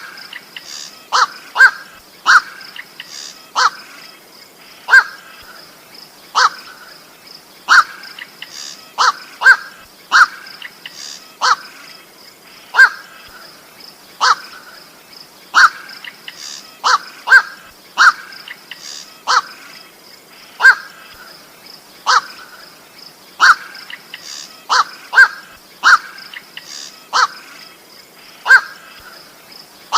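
Black-crowned night heron (burung koak) giving short, harsh single 'kwok' calls about once a second, sometimes two in quick succession, as used for a lure call. A steady high insect drone runs underneath.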